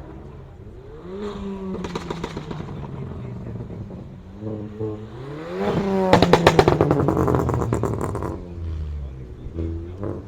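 Car engine revving and accelerating, its note rising in pitch several times as it pulls through the revs, with a rapid rasping crackle at its loudest about six to eight seconds in.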